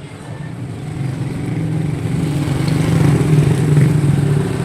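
An engine running steadily with a low hum, growing louder over the first three seconds or so.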